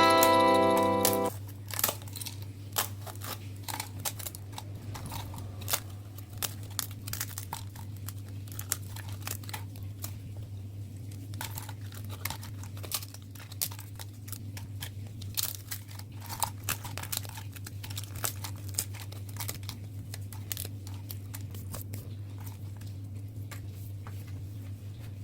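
Crisp baked chicken-breast chips being handled, giving many irregular small crackles and crunches over a steady low hum. Background music cuts off about a second in.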